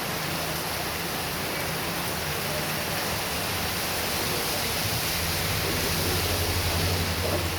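Heavy rain pouring down in a steady, dense hiss. A low hum rises under it in the second half.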